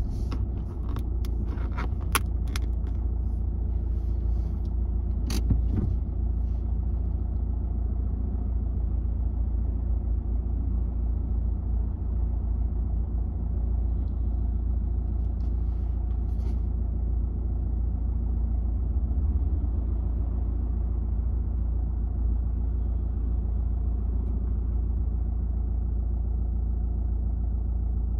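Car engine idling while stationary, a steady low rumble heard from inside the cabin. A few sharp clicks come in the first six seconds.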